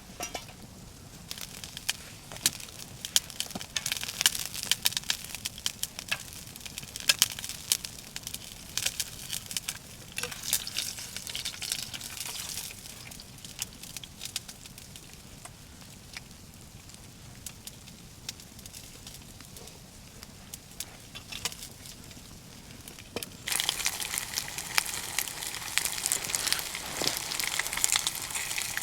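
Wood fire crackling with irregular sharp pops. About 23 seconds in, a louder, steady hiss of flames joins the crackling.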